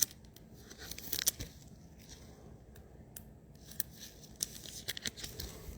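Trading cards being handled and slid over one another, making soft rustles and scattered light clicks.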